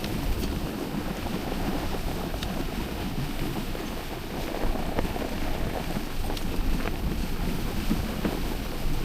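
Wind buffeting the microphone: a steady low rumble with a few faint clicks scattered through it.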